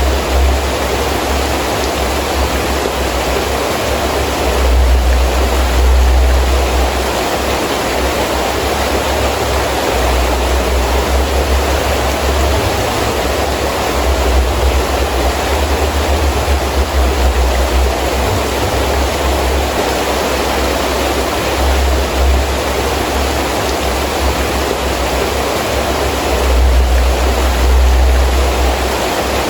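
Heavy rain falling steadily, with wind gusting through it: a low rumble swells and fades several times.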